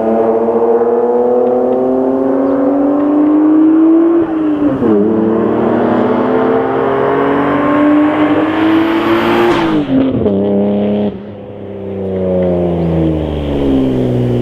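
Toyota JZX90 Mark II's 1JZ-GTE twin-turbo straight-six with a modified intake and exhaust, pulling hard with the engine note climbing, a quick upshift about four seconds in and another about ten seconds in. Shortly after the second shift the throttle closes and the note falls away as the car slows.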